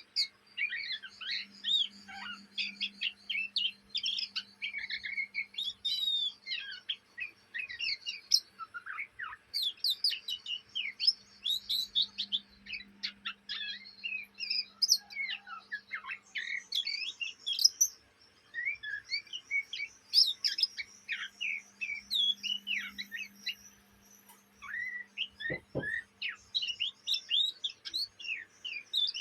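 Young oriental magpie-robin twittering: a long, rapid run of short chirps and whistles with only brief pauses, the continuous chatter of a juvenile bird practising its song.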